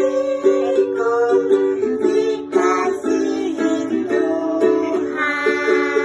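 Music from a plucked string instrument playing a tune, one short note after another.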